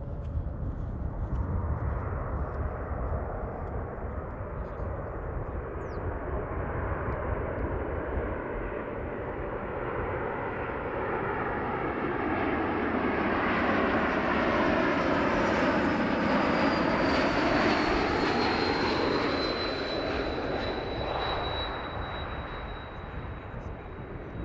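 Airbus A220-300 airliner on landing approach, its Pratt & Whitney PW1500G geared turbofans flying past low. The jet noise builds to a peak about two-thirds of the way through, with a high whine that falls in pitch as the plane passes, then fades away.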